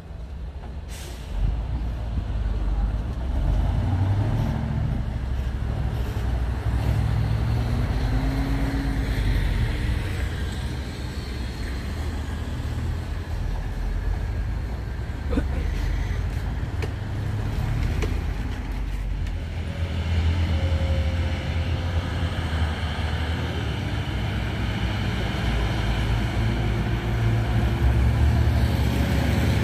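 Heavy diesel trucks running on a slippery climb, the engine noise rising and falling, with short air-brake hisses.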